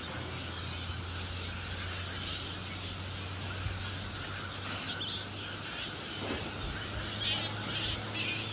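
Outdoor ambience: scattered short bird chirps, more frequent in the second half, over a steady low hum.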